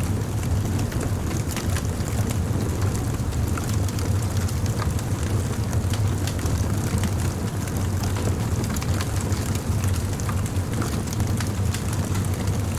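Wood bonfire burning: a steady low rumble of flames with frequent small crackles and pops of burning wood.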